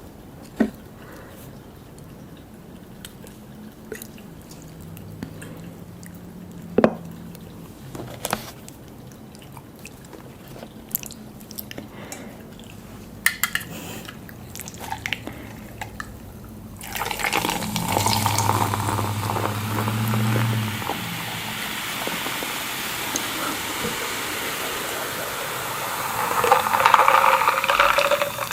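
Scattered small clicks and taps, then, from about two-thirds of the way in, a steady splashing hiss of running liquid that grows louder near the end.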